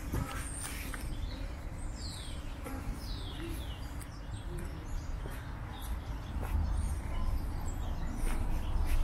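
Small birds calling: a few high whistles sliding downward in pitch about two and three seconds in, and scattered short high chirps, over a steady low rumble.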